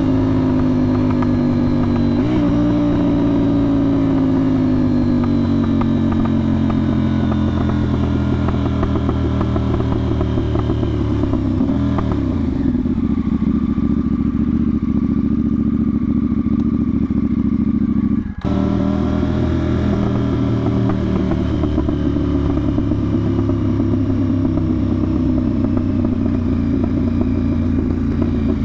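KTM 990 Duke's parallel-twin engine running through a budget aftermarket exhaust with the sound box removed, heard while riding. The engine note falls steadily for about ten seconds as the bike slows off the throttle, then runs at a steady lower speed, with a momentary drop-out about eighteen seconds in.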